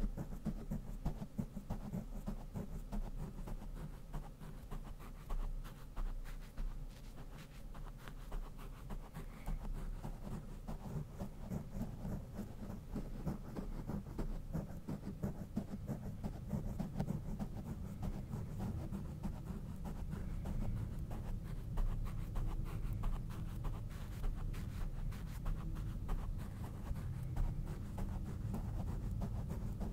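A brush stroked rapidly and continuously over a Blue Yeti microphone's grille, giving a dense, steady, scratchy rustle with a heavy low rumble from contact with the mic.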